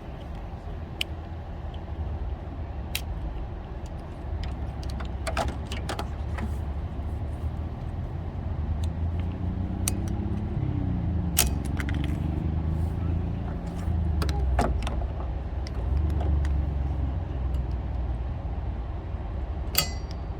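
Scattered sharp plastic clicks and rattles of a windshield wiper blade being slid onto its wiper arm and clamped in place, over a steady low outdoor rumble. A vehicle passes partway through.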